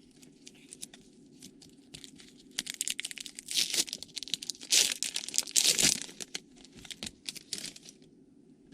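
A trading-card pack wrapper being torn open and crinkled by hand, in crackling bursts that are loudest in the middle.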